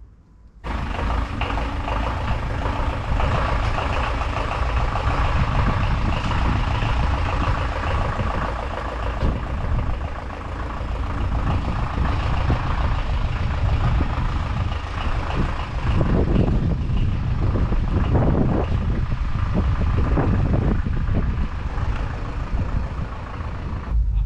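A vehicle engine running close by, starting abruptly, with a few surges of revving in the second half.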